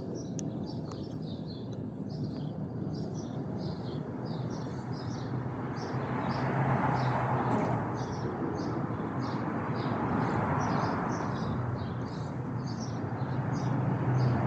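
Small birds chirping over and over, with a steady low hum underneath and a broad rushing noise that swells twice, about seven and ten seconds in.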